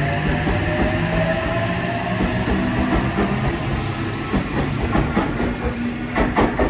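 Passenger train moving through the station: a rising whine early on, then a run of sharp clicks as the wheels cross rail joints, growing louder near the end, with some wheel squeal.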